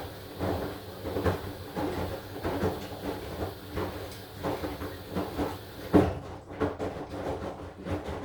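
AQUA AQW-DX12M drum-type washing machine tumbling a load of laundry in the wash phase, with a soft thud about every two-thirds of a second as the clothes drop in the turning drum. The loudest thud comes about three-quarters of the way through.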